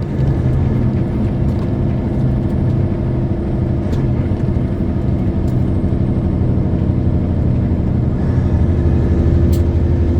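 Semi truck's diesel engine running steadily under way, with road noise; the engine note changes and grows heavier about eight seconds in.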